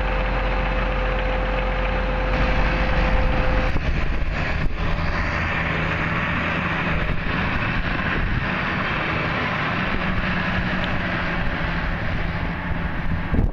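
Case IH MX245 tractor's diesel engine running steadily. About four seconds in, a steady whine and the deepest rumble cut out, and the engine carries on with a lower steady note.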